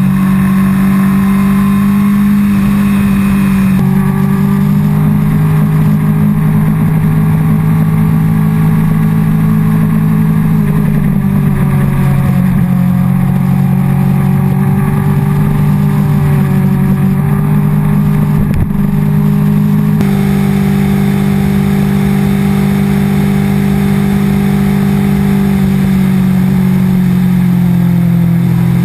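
Honda CBR600RR inline-four engine running steadily under way. Its pitch holds for long stretches and shifts to a new level about four, twelve and twenty seconds in and again near the end.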